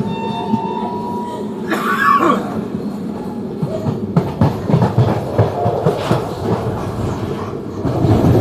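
Passenger train running on the rails: a steady rumble of wheels and coaches with irregular clicks and knocks from the track joints. The rumble grows louder near the end.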